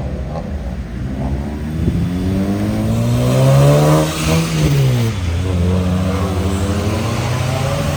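A modified car driving past under acceleration: its engine note climbs as it approaches and drops sharply as it goes by about four seconds in, then settles into a steady, lower engine drone.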